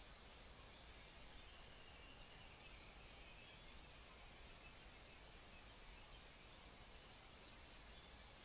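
Near silence: faint outdoor ambience with scattered, quiet high-pitched chirps.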